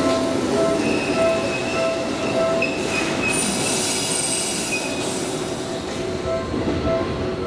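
Seibu 10000 series New Red Arrow electric train rolling slowly into the platform and braking to a stop. A thin, high squeal from the wheels and brakes sounds for a couple of seconds near the middle, over an evenly repeating beep.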